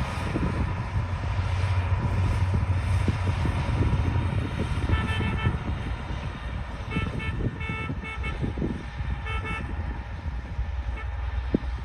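D60 bulldozer's diesel engine running steadily, with irregular clanks and knocks. About halfway through come several short, high-pitched tones in a loose, uneven series.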